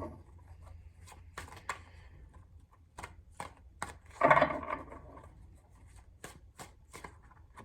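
Tarot cards being shuffled and handled: a run of short, sharp card snaps and clicks, with a louder rustle of cards about four seconds in.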